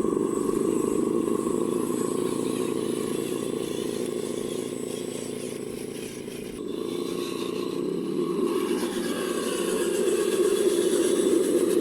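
Electric motors and gearboxes of radio-controlled construction models running with a steady whine, with some scraping and rattling. The whine eases off about halfway through, then picks up again.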